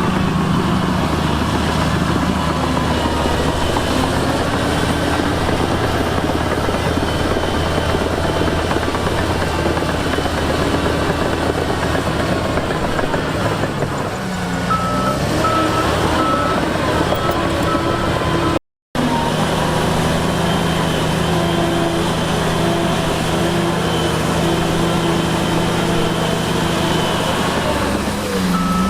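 Heavy diesel earthmoving machinery running steadily, with a reversing alarm beeping in short, even beeps for a few seconds past the middle and again at the end. The sound cuts out completely for a moment about two-thirds of the way through.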